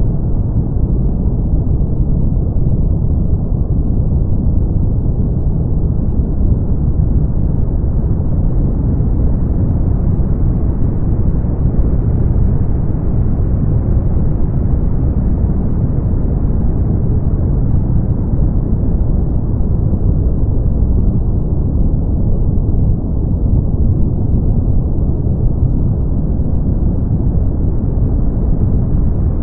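Brown noise: a steady, deep rumbling hiss with no high end, level throughout.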